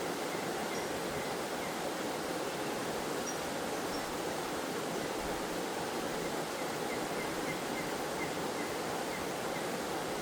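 Forest waterfall: a steady rush of falling and flowing water. A faint run of quick, high chirps comes through in the second half.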